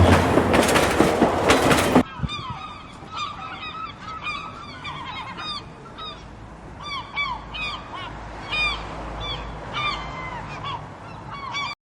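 A loud rushing rumble that cuts off abruptly about two seconds in. After it come geese honking: many short calls, overlapping irregularly.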